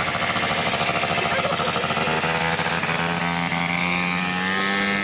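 Motorcycle engine running at steady revs, then revving up with a rising pitch over the last two seconds.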